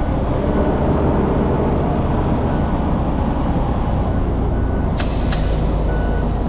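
Diesel engine of a Peterbilt 389X rotator wrecker running steadily under load as the truck backs up, with a faint repeated backup-alarm beep. Two sharp clicks come about five seconds in.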